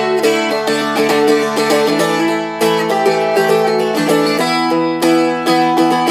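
Seagull Merlin M4, a four-string dulcimer-style instrument, strummed in a steady rhythm, its chords ringing over a sustained drone. The chord changes about two and a half seconds in and again a couple of seconds later.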